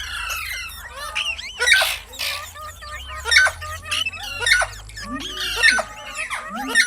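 Alexandrine parakeet squawking and chattering: a rapid string of short, harsh calls that bend up and down in pitch, several a second at times.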